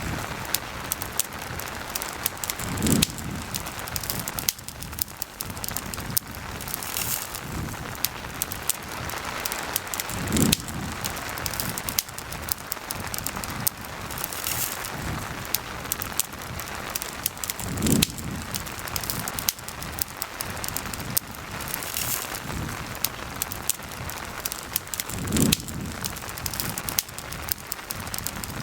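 Steady rain mixed with a campfire crackling, with many small pops and a low thump about every seven and a half seconds.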